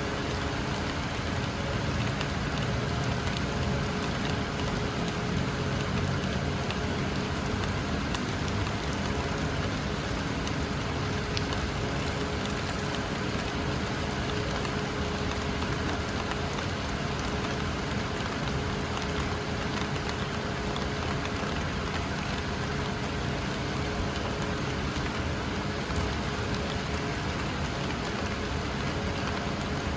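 Heavy rain falling steadily, a dense even patter without a break.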